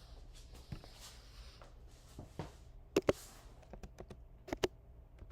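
Scattered light clicks and taps, with two sharp double clicks about three seconds and four and a half seconds in, over a faint low hum.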